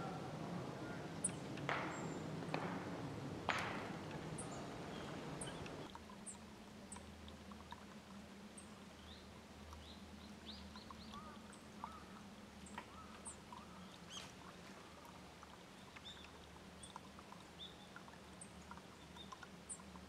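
Faint outdoor ambience with small birds' short, thin, high chirps and calls scattered throughout. The first six seconds are louder and noisier, with a couple of sharp clicks. After that the background drops to a quieter one with a low steady hum underneath.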